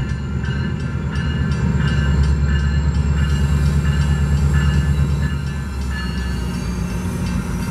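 Metrolink diesel locomotive drawing into the station: its engine rumbles low and steady, and its bell rings about twice a second. The engine note shifts about two-thirds of the way through, and a faint high squeal runs underneath.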